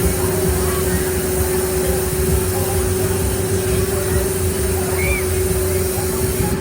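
Hurricane carnival ride's machinery running with a steady hum over a low rumble, with faint distant voices.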